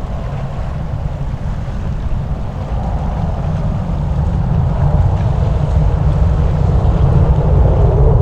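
Jet aircraft engines giving a deep, steady rumble that grows gradually louder, as a jet passes close by at the airport.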